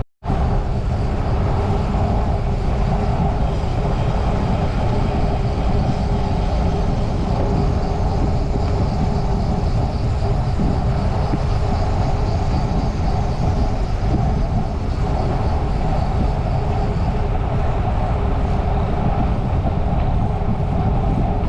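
Steady wind rush on the microphone with the road hum of a bicycle rolling along, strongest at the low end. The sound cuts out for an instant at the very start.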